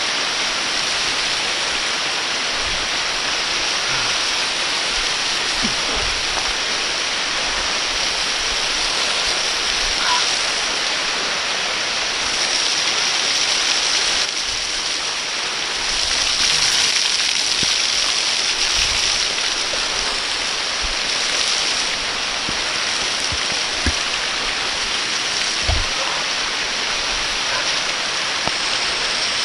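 Waterfall rushing steadily as a dense, even roar of falling water, with a couple of brief low thumps near the end.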